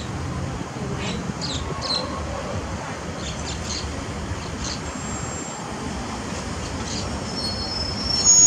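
Passenger coaches of a State Railway of Thailand train rolling slowly over station track, making a steady low rumble with scattered brief high squeaks. Near the end a sustained high-pitched wheel squeal sets in and the sound grows louder.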